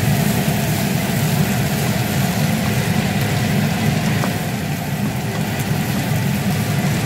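Sliced potatoes, celery and onions frying in a hot wok and being stirred with a wooden spatula, over a steady low rumble, with a few light scrapes of the spatula.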